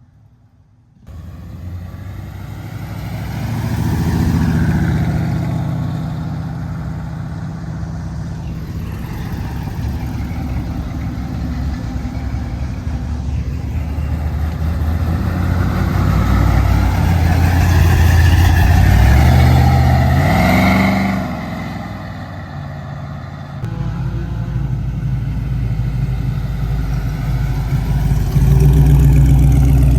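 A car engine starts up loud about a second in and runs hard, building in revs. About two-thirds of the way through it climbs sharply in pitch, then drops away and builds again.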